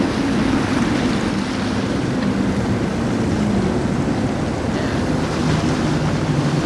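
Boat engine droning as a boat passes, its pitch slowly falling, over the wash of waves and wind on the microphone.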